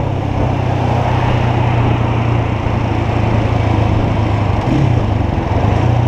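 Motorcycle engine running steadily while riding, with a constant low drone and wind rushing over the microphone.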